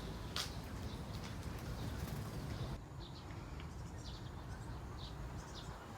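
Short, scattered bird chirps over a steady low rumble; the background changes abruptly about halfway through.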